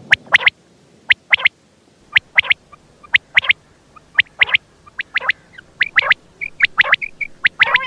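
Quail calling over and over: short, sharp chirping notes in groups of two or three, about one group a second, with softer short whistled notes joining in the second half.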